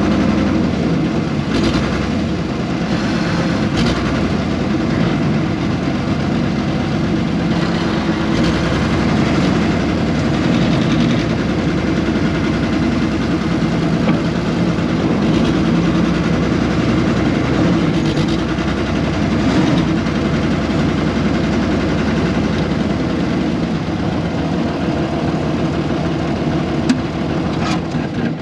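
Air-cooled Deutz diesel engine of a 1970s excavator running steadily while it digs, with a few short knocks along the way.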